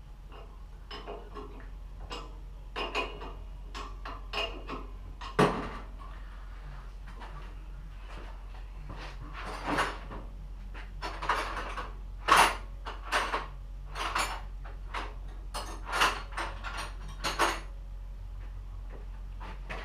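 Metal tools and parts clinking and knocking against each other at an irregular pace as they are handled during mechanical work, a few knocks louder than the rest.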